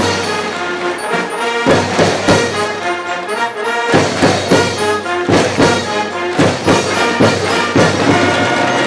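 School brass band in a baseball cheering section playing a fight song: brass melody over repeated drum hits that come in short groups.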